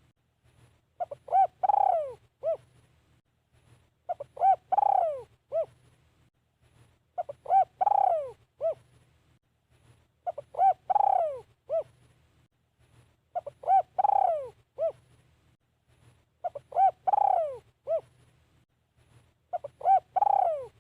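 A spotted dove, a decoy bird, cooing its repeated call about every three seconds. Each phrase is two short coos, a long coo sliding down in pitch, then a short closing coo, seven times over.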